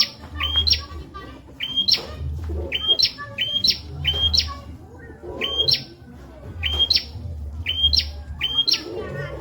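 Prenjak (prinia) calling: short chirps that step up sharply in pitch, repeated over and over, mostly in pairs about a second apart. A low hum comes and goes underneath.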